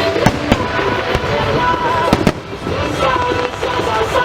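Fireworks shells bursting overhead: several sharp bangs, with a close pair about two seconds in.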